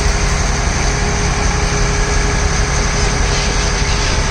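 Boat engine running steadily: a low rumble with a steady hum over it.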